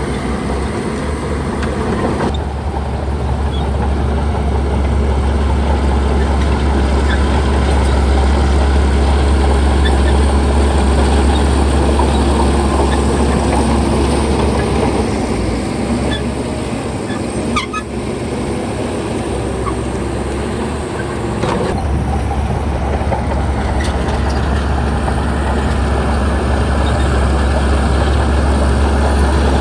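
Shantui bulldozer's diesel engine running steadily under load, with a deep low hum. It eases off briefly a little past halfway, where a few sharp clanks come through, then picks up again.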